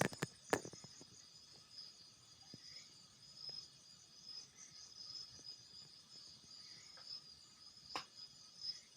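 A steady, high-pitched chorus of night insects chirring, with a few sharp clicks near the start and another about eight seconds in.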